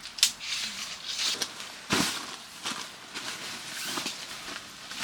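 Irregular rustling and handling noises with a few sharp knocks, the loudest about two seconds in.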